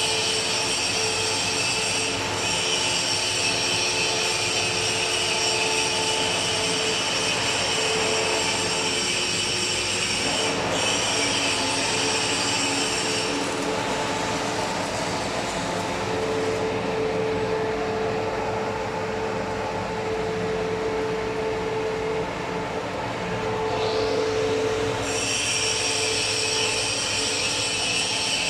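Electric welding arc crackling and sizzling steadily, with a high whine over it that drops out for about ten seconds in the middle and returns near the end.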